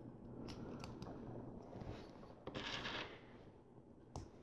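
Faint handling of plastic LEGO pieces: a few small clicks as parts are fitted together, and a short rustle of hands and pieces just past the middle.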